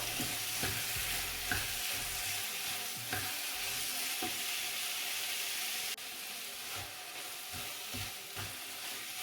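Chopped carrots, garlic and celery frying in oil in a pan, with a steady sizzle and a spoon stirring and knocking against the pan now and then. The sizzle drops a little about six seconds in.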